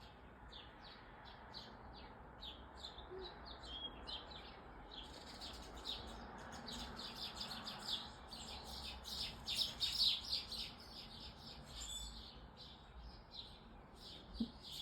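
Small birds chirping: a long run of quick, short, high chirps, growing busier and louder from about five seconds in.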